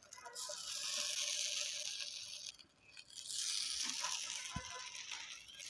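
Masala-coated raw banana slices sizzling in hot oil on a flat iron pan, in two stretches with a short break about halfway.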